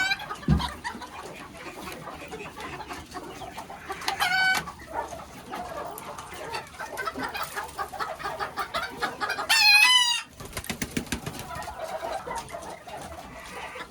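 Old English Game bantam chickens clucking in their pens, with two short high-pitched calls rising above it about four seconds and nine and a half seconds in, the second the loudest.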